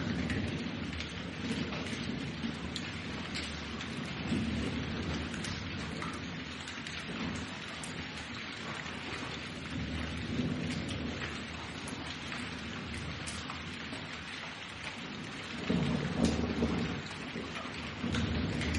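Steady rain falling with scattered drop ticks, under low rolling thunder that swells and fades, louder for a second or so about sixteen seconds in.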